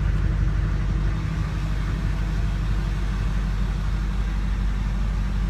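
Chevrolet 6.6-litre Duramax V8 diesel idling steadily, heard from inside the truck's cab.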